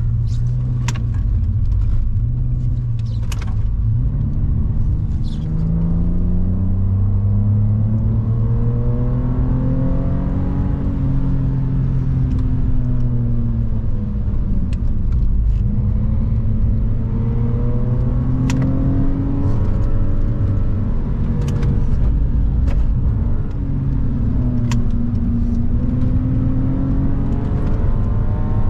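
BMW E46 330i's 3.0-litre inline-six heard from inside the cabin under hard acceleration: the engine note climbs in pitch, falls back twice, then pulls to about 6000 rpm near the end. A few sharp clicks are heard over it.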